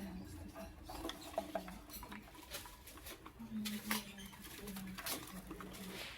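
Lovebirds in a cage: scattered sharp clicks and taps with a few short, faint squeaks, over a low hum that comes and goes.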